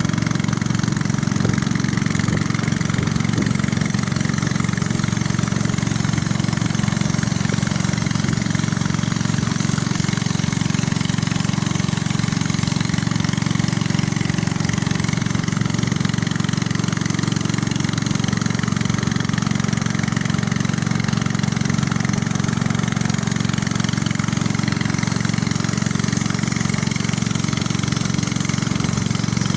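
Small boat's engine running steadily at an unchanging speed.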